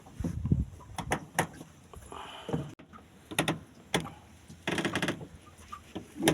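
Irregular knocks and clicks from handling gear aboard a small wooden fishing boat, with a short run of rapid clicking about five seconds in.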